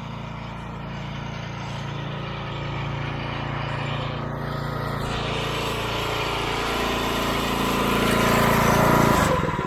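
Pressure-washer engine running steadily under a hiss of spraying water, slowly getting louder. About nine seconds in the engine note drops abruptly to a slow, even chugging.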